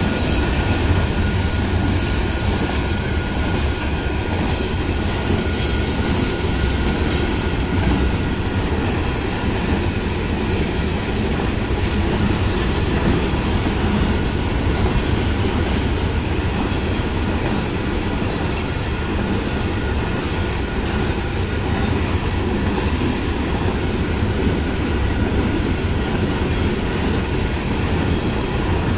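Covered hopper cars of a long Union Pacific freight train rolling steadily past at speed: a continuous rumble and rattle of steel wheels on rail, with a faint steady high tone running through it.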